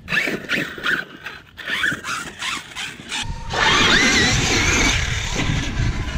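Electric RC monster truck's brushless motor whining in short bursts of throttle, then from about three and a half seconds in a loud sustained run with a wavering high whine over a low rumble.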